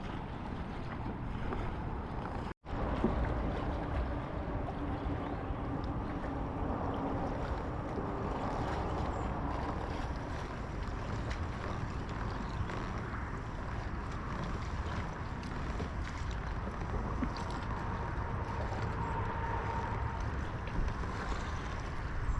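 Steady rumble of strong wind, gusting 30 to 40 mph, blowing across the microphone, broken by a split-second gap about two and a half seconds in.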